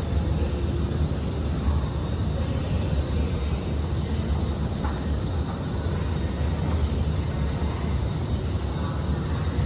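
Steady low hum inside a stationary SMRT R151 train carriage: the train's air-conditioning and onboard equipment running while it stands at a platform.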